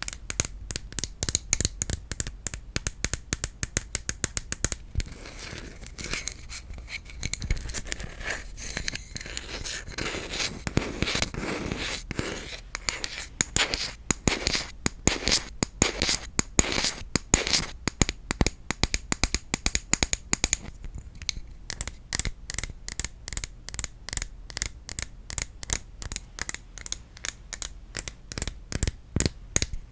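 Rapid tapping on wooden objects, with stretches of scratching and scraping across the wood. About twenty seconds in, it turns to fast, even taps.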